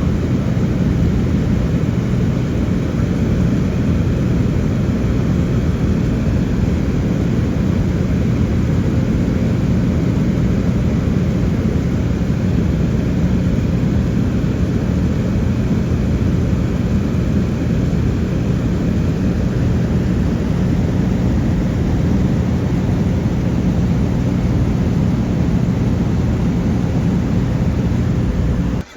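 Single-engine light aircraft's piston engine and propeller running steadily in flight: a loud, even drone with a low hum. It cuts off suddenly near the end.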